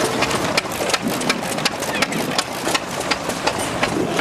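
Several vintage hit-and-miss stationary engines running together, with many irregular sharp clicks and pops over a steady mechanical clatter; voices murmur in the background.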